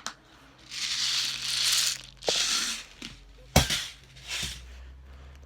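A BB gun being handled, with rustling and clicking, then firing a single sharp shot about three and a half seconds in.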